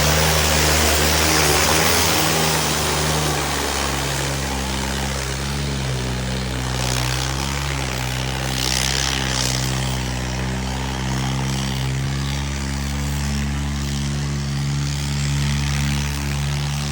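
John Deere tractor's diesel engine running hard under load while pulling a harrow through soil, with a steady drone whose pitch dips slightly a few seconds in.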